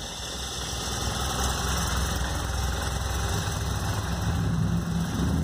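2007 BMW R1200 RT's boxer twin engine idling steadily just after a cold start, having sat several hours, running without knocking or unusual noises.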